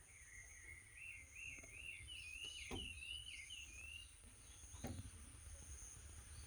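A bird calling with a wavering whistle that rises and falls for about four seconds, over a steady high insect drone. Two faint clicks come about a third and three quarters of the way through.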